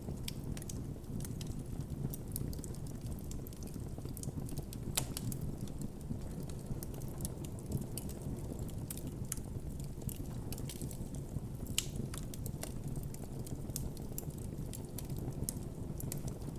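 Campfire crackling and popping: frequent short sharp snaps over a steady low rush of burning flames, with two louder pops about five seconds in and near twelve seconds.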